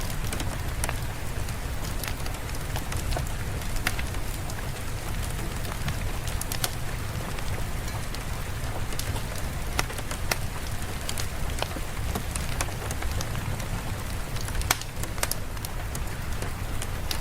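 Steady rain on a surface, with scattered sharp drips and ticks and a low rumble underneath.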